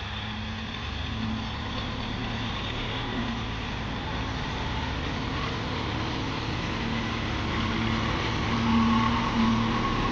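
Tractor engine running steadily, gradually getting louder.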